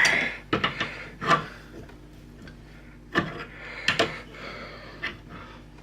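Metal hand-tool clicks and knocks, about six at irregular intervals, some with a short ring, from a pipe tap and its wrench being worked in an aluminum adapter.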